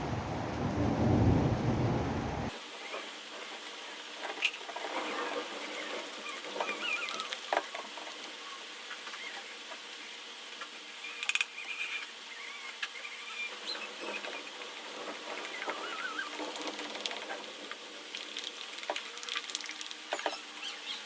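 A utensil stirring thick cake batter in a bowl, with scattered clicks and scrapes and small wet squeaks as the milk is worked into the flour. For the first two seconds or so a louder low noise covers it, then cuts off suddenly.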